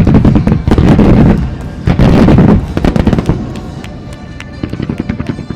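Aerial fireworks bursting in quick succession: heavy booms with dense crackling, loudest at the start and again about two seconds in, thinning to scattered crackles after that. Music plays underneath.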